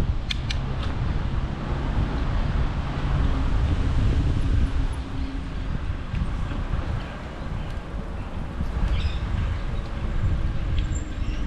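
Wind on the microphone and bicycle tyres rolling along a path make a steady low rumble, with a few sharp ticks near the start.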